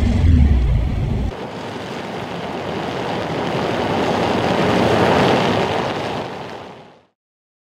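Deep rumble of the Mercedes-AMG G 63's twin-turbo V8 as the vehicle drives past, cut off sharply about a second in. Then a rushing, wind-like noise that swells and fades away to silence near the end.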